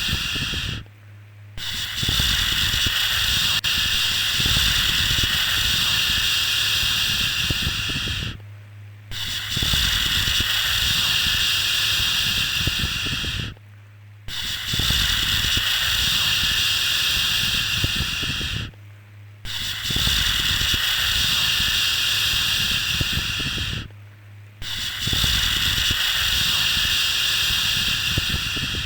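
A shushing "shhh" sound for soothing a baby to sleep: long hissing shushes of four to seven seconds each, repeated over and over with a short pause of under a second between them.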